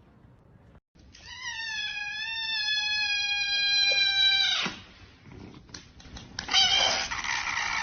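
A cat meowing: one long, drawn-out meow lasting about three seconds that falls off at the end, then a second, rougher meow near the end.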